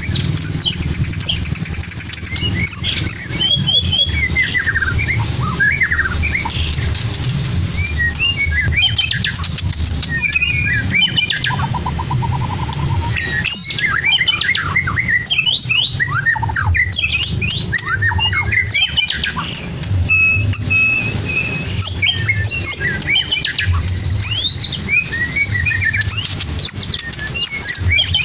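White-rumped shama singing a long, varied song of rapid whistles, chips, sweeping notes and trills, a full-repertoire song laced with mimicry of lovebird, canary and cililin calls. A steady low hum runs underneath.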